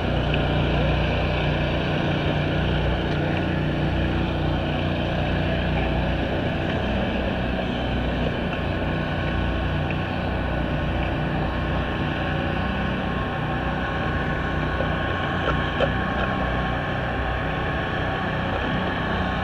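Steady drone of engines running, several steady pitches layered over a low rumble, with one short sharp knock about three-quarters of the way through.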